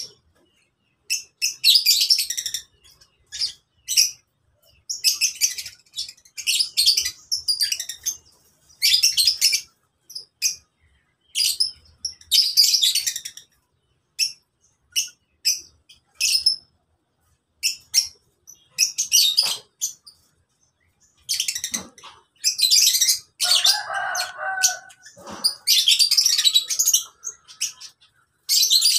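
Lovebirds chirping: shrill, high-pitched bursts of rapid chatter in short spells with brief silences between them, and a lower-pitched call a little past two-thirds of the way through.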